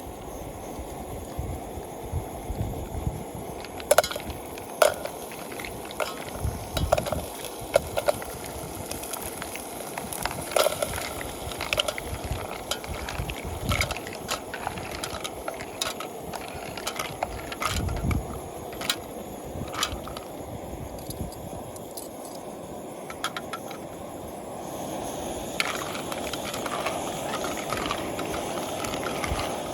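Irregular clicks, clinks and knocks of cookware and food being handled during outdoor cooking, over a steady hiss that grows a little louder near the end.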